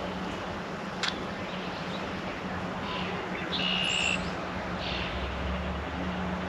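Wild songbirds calling at a backyard feeder: several short high calls, the loudest about halfway through, over a steady low hum and hiss, with one sharp tick about a second in.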